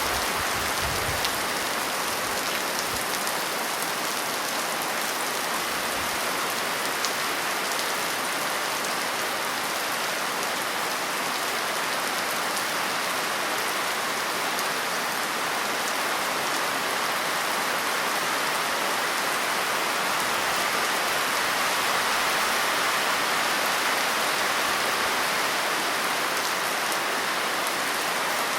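Steady rain falling: an even hiss with a few individual drop ticks standing out.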